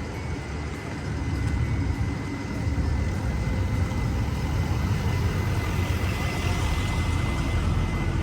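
Street traffic: a steady low rumble of vehicle engines and road noise, with a faint steady high tone throughout.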